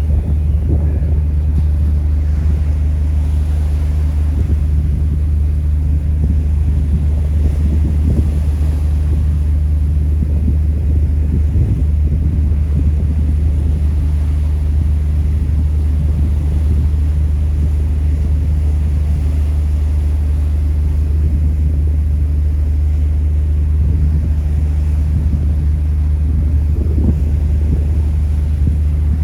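Ferry's engines running with a steady, deep drone that does not change.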